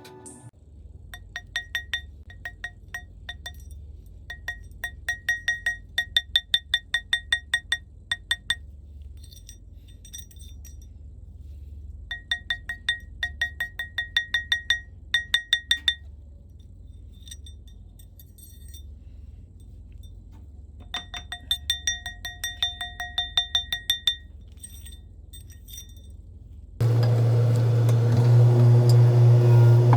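Rapid light hammer taps on metal, each ringing with the same clear metallic tone, in runs of many strikes with pauses between them: typical of a jeweller's hammer working a gold ring on a steel mandrel. Near the end a loud, steady machine hum starts.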